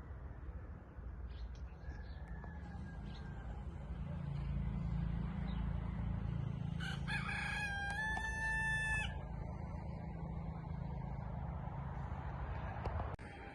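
A rooster crows once, a drawn-out call of about two seconds partway through, over a steady low rumble.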